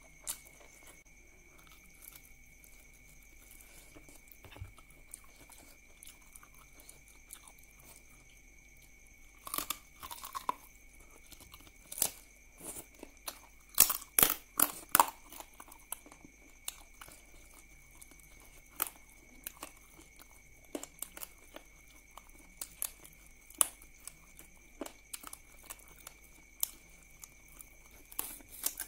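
A person chewing close to the microphone while eating duck curry and rice by hand, with irregular sharp clicks. The clicks are loudest around ten seconds in and again at fourteen to fifteen seconds.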